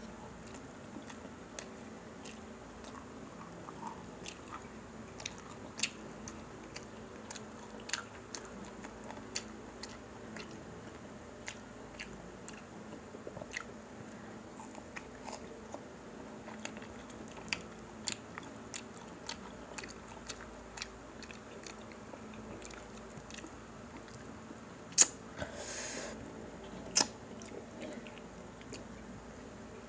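Close-up mouth sounds of people chewing and crunching crispy pata (deep-fried pork knuckle) with rice eaten by hand: scattered crisp clicks and smacks over a faint steady hum, with two louder crunches about two seconds apart near the end.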